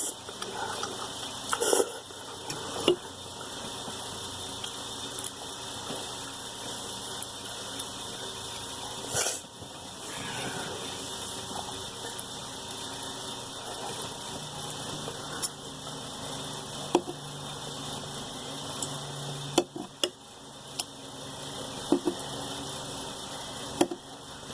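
Ramen being eaten: scattered sharp clicks and clinks of utensils against a bowl, a dozen or so spread over the stretch, over a steady background hiss.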